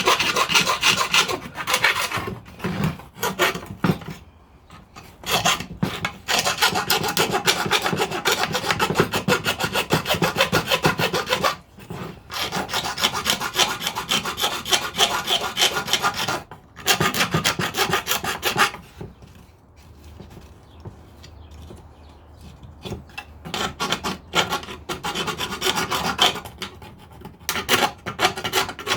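Hand file rasping back and forth on the wooden edge of a birdhouse entrance hole, smoothing it. Runs of rapid strokes with a few short pauses and a quieter spell past the middle.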